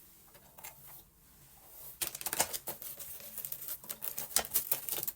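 A comb drawn through a wig's long straight hair: rapid scratchy rustling and crackling, starting about two seconds in.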